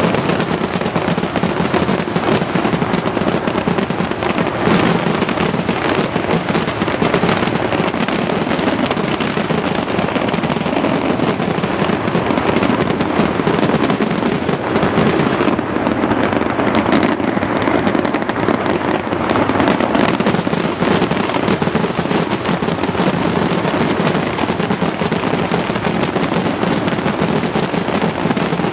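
New Year's fireworks display: a dense, continuous run of bangs and crackling with no pause.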